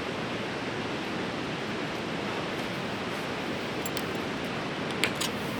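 Steady rushing of a fast-flowing river, with a few short clicks near the end.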